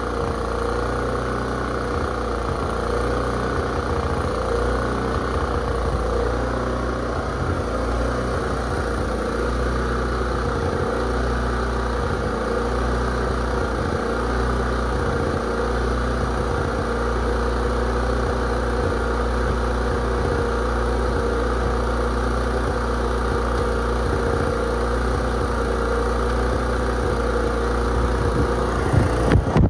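Honda EM3000 generator engine running steadily, on the fuel left in its carburettor bowl. A few brief louder knocks come near the end.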